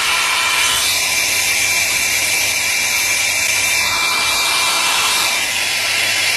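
A steady mechanical whirring noise with a low hum and faint high tones, holding even without a break.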